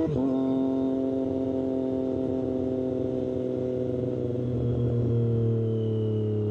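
Triumph Street Triple 765RS inline three-cylinder engine running through an SC-Project exhaust. The revs drop sharply right at the start, as in a quick gear change, then the note falls slowly and steadily as the bike slows.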